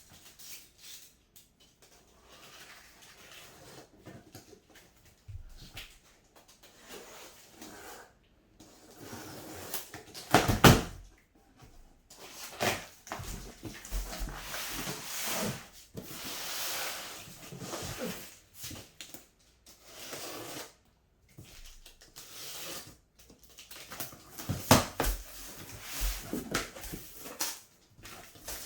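A cardboard shipping box and its packaging being handled, with irregular rustling and scraping and a few knocks. The loudest knock comes about ten and a half seconds in, and another comes near twenty-five seconds.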